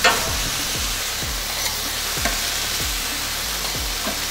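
Sliced rib-eye steak and onions sizzling steadily on a hot gas plancha while metal spatulas scrape and turn them on the plate, with a sharp spatula scrape right at the start.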